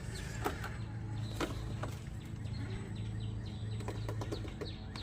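Small birds chirping in short, scattered calls over a steady low hum, with a few sharp clicks.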